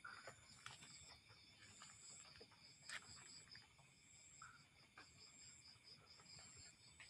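Faint night insects chirping: a steady high pulsing trill of about three to four pulses a second, with a second, higher insect buzzing on and off and a few faint clicks.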